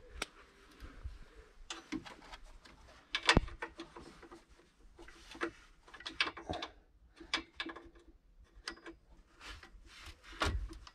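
Irregular clicks and knocks of spanners working on bolts, metal on metal, with the loudest knocks about three seconds in and near the end.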